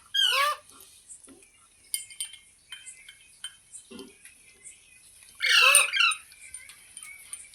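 Green parrot giving two loud, harsh squawking calls, a short one just after the start and a longer one about five and a half seconds in, with faint clicks in between.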